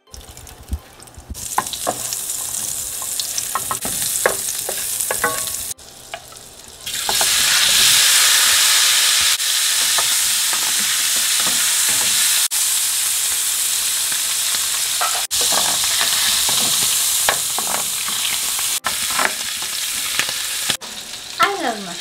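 Canned whole button mushrooms sizzling as they fry in hot fat in a pan. The sizzle grows much louder about seven seconds in.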